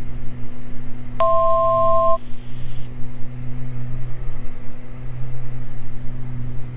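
Steady drone of a Beechcraft G58 Baron's twin six-cylinder piston engines and propellers in flight. About a second in, a click and then a two-tone electronic beep lasting about a second.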